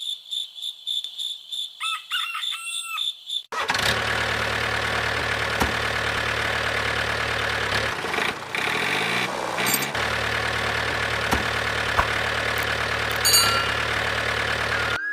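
Rhythmic cricket chirping, with what sounds like a rooster crowing briefly near its end. From about three and a half seconds a loud, steady engine sound like a tractor's starts up and runs on, dipping and rising in pitch around eight to ten seconds.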